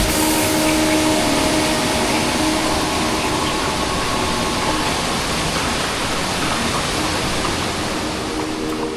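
Steady, loud rushing of a waterfall. Background music fades out under it over the first few seconds.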